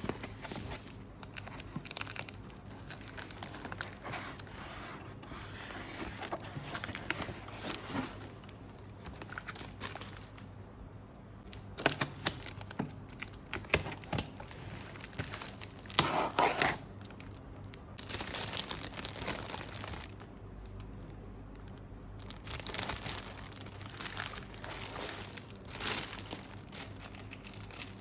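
Packing material being torn open and crumpled as a plant is unboxed: irregular rustling, tearing and scraping, loudest about halfway through.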